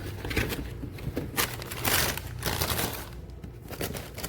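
Rustling and crinkling handling noise in several short bursts, like paper or plastic being moved about.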